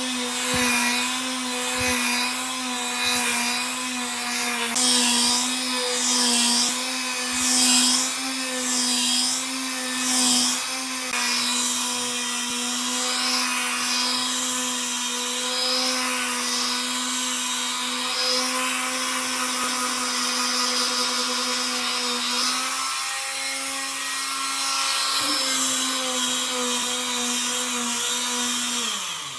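An electric power tool's motor runs at a steady pitch. Over it comes a swishing noise that rises and falls about once a second, as the tool is worked back and forth on wood. Near the end it is switched off and spins down with a falling pitch.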